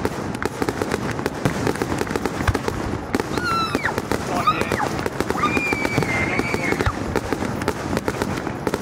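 Fireworks display: a dense, continuous crackle of many small rapid pops. A few high gliding tones come through in the middle, one held for about a second and a half.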